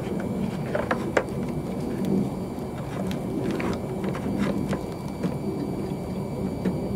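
Scattered light clicks and taps of parts being handled while an HID bulb is fitted into a car headlight assembly, over a steady low background noise.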